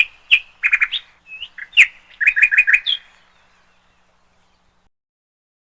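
A songbird singing a run of quick, sharp chirps and short repeated notes, stopping about three seconds in.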